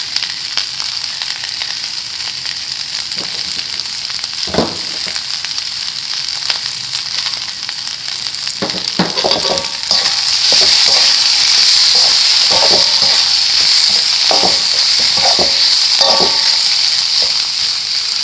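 Egg, meatballs and sausage sizzling in hot oil in a pan as they are stir-fried. The sizzle grows louder about ten seconds in, and a metal spatula knocks and scrapes against the pan a dozen times or so, mostly in the second half.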